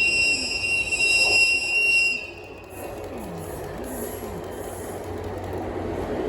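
Train passing close by, its running noise loud with a high, steady squealing ring for the first two seconds or so; then the noise drops away as the train moves off, leaving a quieter rumble.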